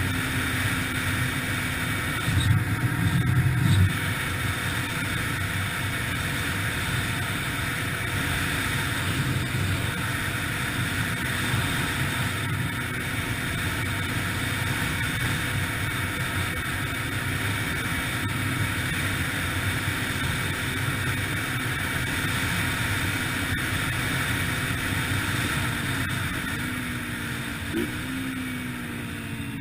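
Yamaha TTR-125LE dirt bike's single-cylinder four-stroke engine running steadily under way, with a brief louder low rumble about three seconds in. Near the end the engine note falls and fades as the bike slows.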